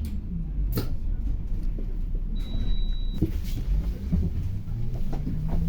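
Inside a city bus: low engine and road rumble with rattles and knocks, a sharp click about a second in, and a short high beep a little before the middle.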